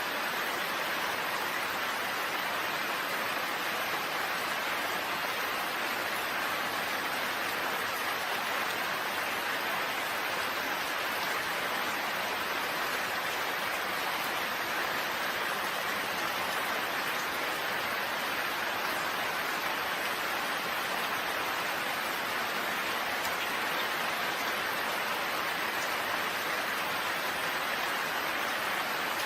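Steady rain falling, a dense even hiss with no distinct drops and no change in level.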